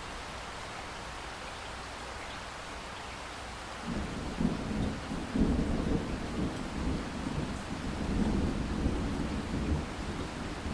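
Steady rain hiss, joined about four seconds in by a long, loud rumble of thunder that rolls on to the end.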